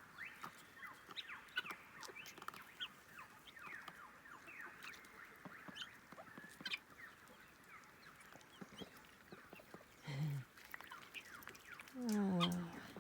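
Poultry flock calling: many quick, short, downward-sliding chirps throughout, with a short low call about ten seconds in and a louder low falling call near the end.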